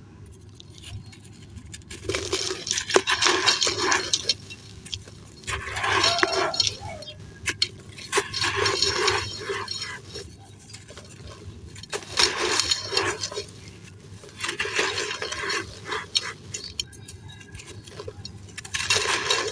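Dry, crispy blue-dyed sand crumbling and trickling into a clay pot, a gritty crunching and pouring sound. It comes in about six bursts, each a second or two long, a few seconds apart.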